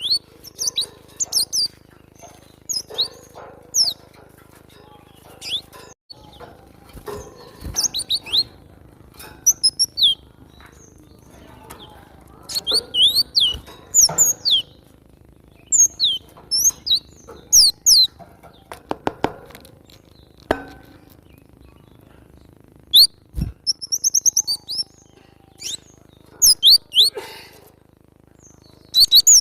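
Cinereous tit (glatik batu) calling: clusters of sharp, high-pitched chirps and short falling notes, repeated in quick series with short pauses between. A few short knocks fall between the clusters in the second half.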